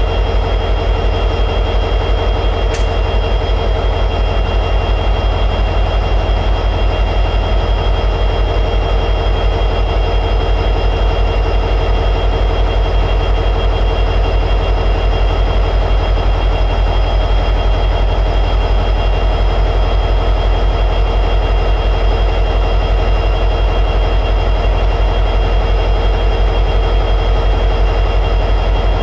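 EMD 710G3B diesel prime mover, a 16-cylinder two-stroke, running steadily at high idle in an SD60-series locomotive. It drones evenly at a constant speed, with a steady high-pitched whine over it and one brief tick about three seconds in.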